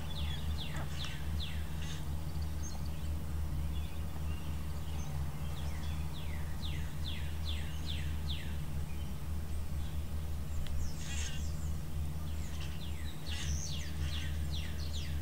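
Birds calling outdoors: runs of quick downward-sliding chirps, two or three a second, over a steady low hum.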